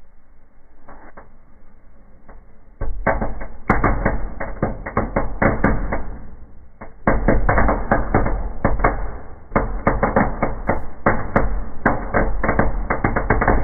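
Birch bark burning in a fireplace, crackling and popping in dense rapid volleys: faint at first, then a sudden loud burst of crackles about three seconds in that eases briefly and flares up again about seven seconds in.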